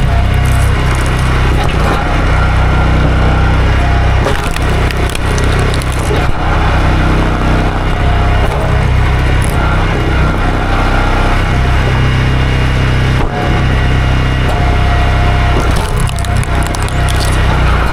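Two-stroke chainsaw running hard and cutting through a tree stump low to the ground, with the engine held steady under load.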